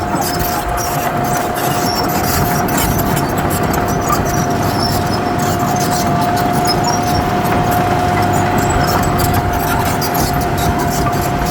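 Crawler bulldozer at work: its diesel engine runs under load with a steady high-pitched whine over the rumble, and the tracks clatter with rapid metallic clicks.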